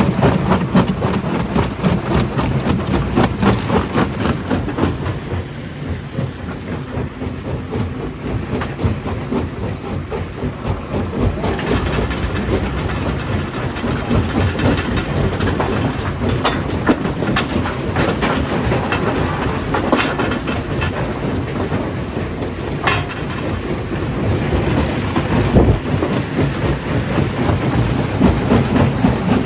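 Stone crusher running and crushing rock: a steady heavy rumble with a dense, irregular clatter of knocks. It eases for a few seconds about five seconds in, then builds again.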